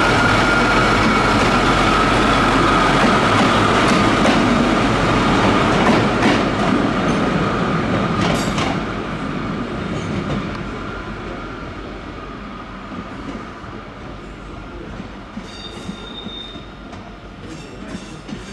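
A train moving on the rails, with a loud rumble, a high steady squeal and a run of clicks from the wheels over rail joints. Over the second half it fades away, and a short higher squeal comes near the end.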